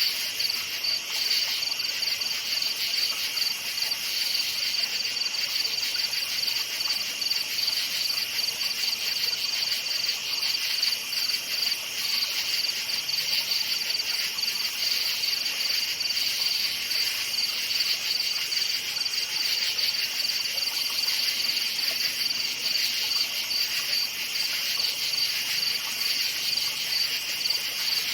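A chorus of crickets chirping steadily, a dense, rapid, high-pitched trill that never lets up.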